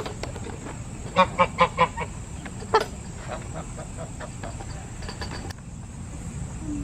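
A large domestic fowl up close, giving a quick run of about five short calls a little over a second in, then one louder call, with fainter calls and a few sharp taps after.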